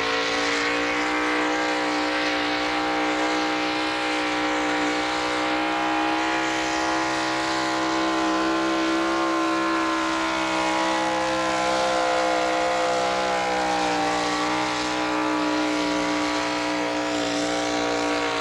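Modified pulling tractor's engine held at full throttle under load during a pull, a steady high-revving drone with only slight rises and dips in pitch.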